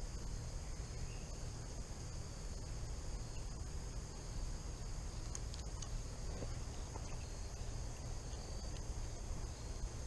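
Steady chorus of crickets and other insects, a continuous high-pitched trill, over a low rumble.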